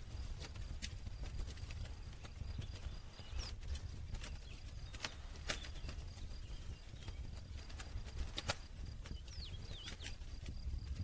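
Campfire crackling: irregular sharp pops, two of them louder about halfway through and near the end, over a steady low rumble of burning wood.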